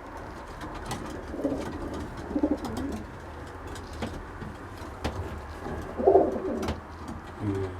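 Domestic racing pigeons cooing: a few low, rounded coos, the loudest about six seconds in, with scattered light clicks.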